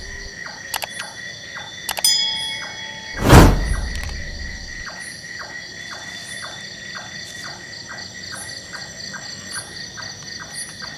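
Chorus of night insects trilling steadily, with small regular ticks and chirps. A brief squeal comes about two seconds in, and a loud sudden crack a little after three seconds fades away slowly.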